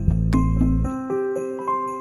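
Background music: a melody of bell-like chiming notes over low bass notes, the bass dropping out about a second in.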